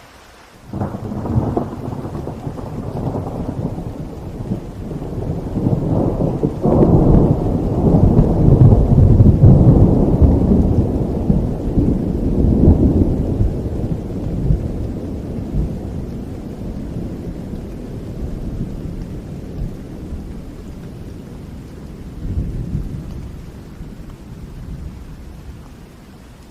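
A long roll of thunder over steady rain. It breaks in suddenly about a second in, swells to its loudest after several seconds, then rumbles away slowly.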